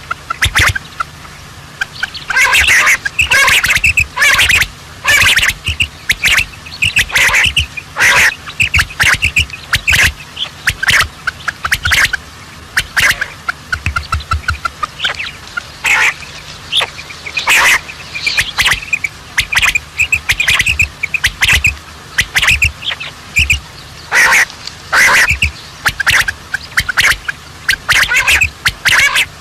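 Birds calling loudly, with short calls coming in quick clusters every second or two and no let-up.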